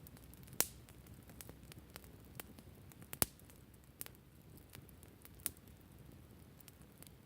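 Wood campfire burning: a low steady rush of flame with scattered sharp crackles and pops from the burning wood. The loudest pops come about half a second in, at about three seconds, and at about five and a half seconds.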